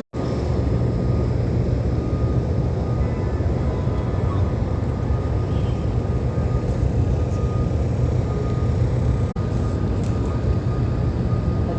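Steady low rumble of a moving subway train, with a faint high whine running through it.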